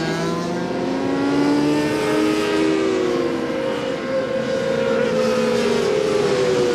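Several 400 cc supersport racing motorcycles running at high revs on track, their engine notes overlapping and sliding in pitch as they pass. Near the end one engine's pitch jumps up and down quickly with gear changes.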